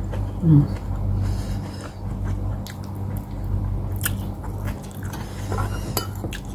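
Close-miked chewing and biting of a person eating braised pork hock with rice, with scattered small clicks and smacks, over a steady low electrical hum.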